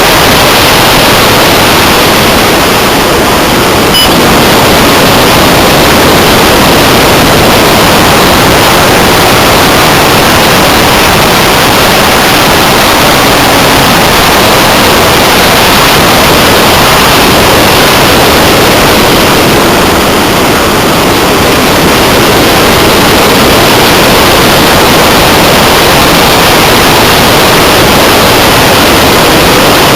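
Steady, very loud rushing noise picked up by an onboard camera's microphone riding on an electric hotliner model plane in flight: airflow over the airframe overloading the small microphone.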